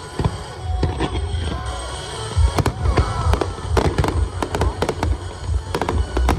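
Fireworks bursting in a quick series of sharp bangs and crackles, thickening from about two and a half seconds in, over show music with a heavy bass.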